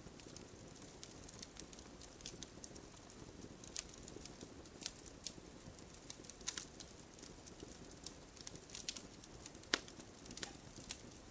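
Bonfire crackling with irregular sharp pops, the loudest a little before the end, over steady rain.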